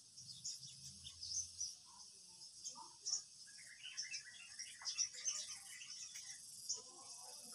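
Faint, steady high chirring of insects, with a cluster of short chirps through the middle.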